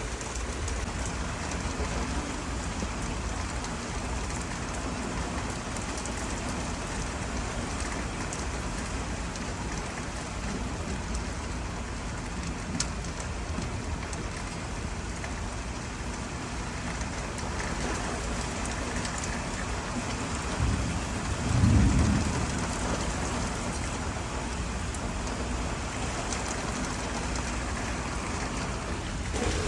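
Steady rain falling, an even hiss throughout. About two-thirds of the way in, a low rumble of thunder swells and fades, the loudest moment.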